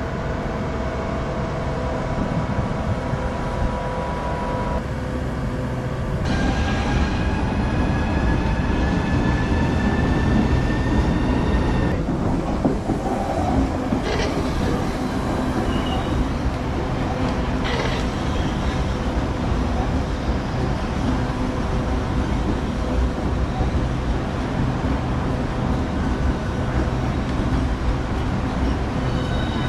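Southeastern electric train running on the rails: a steady rumble with high whining tones that step up about six seconds in and rise slightly in pitch. Two sharp clicks come in the middle.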